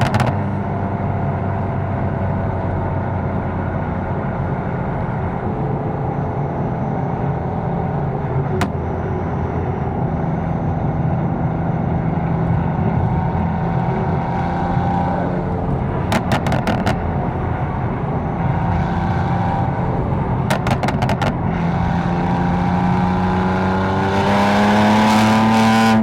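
Catless, tuned BMW M4's twin-turbo inline-six running steadily at cruise, its pitch rising near the end as it accelerates. Two brief clusters of sharp clicks come partway through.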